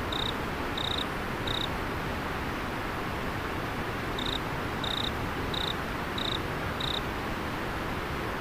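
Steady rush of flowing river water, with a cricket giving short high chirps about two-thirds of a second apart: three, then a pause of a couple of seconds, then five more.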